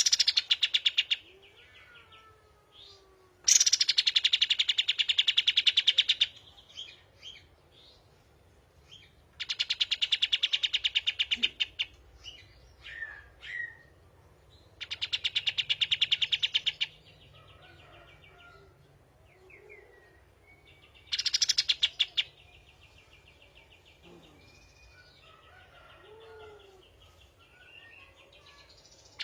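Songbird song: four loud bursts of rapid, rattling repeated notes, each lasting two to three seconds, with softer whistles, slurred notes and chips between the bursts.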